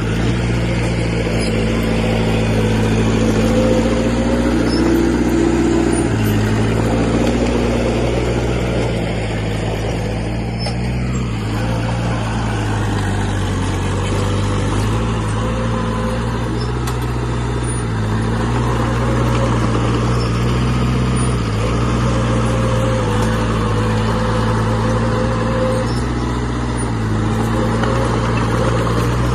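Heavy earthmoving machine's diesel engine running steadily under work, its engine note stepping to a different pitch a couple of times.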